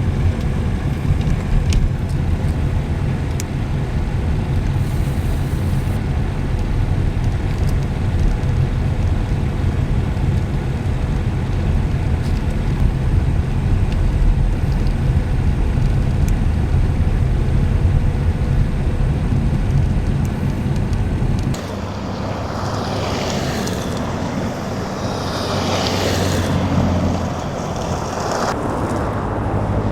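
A vehicle driving on a snowy highway, heard as a steady low road and engine rumble. About two-thirds of the way in, the rumble drops and a hiss swells and fades twice.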